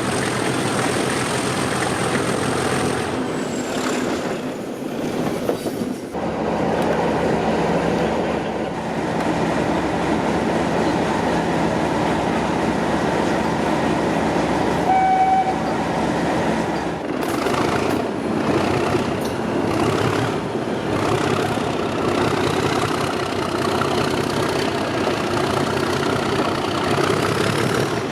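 Class 37 locomotive's English Electric 12CSVT diesel engine running hard as it hauls the train, with a short single blast of the horn about halfway through.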